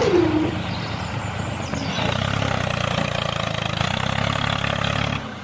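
A motor running: a steady whine falls in pitch and dies away at the start, then a steady mechanical running sound starts about two seconds in and cuts out briefly near the end.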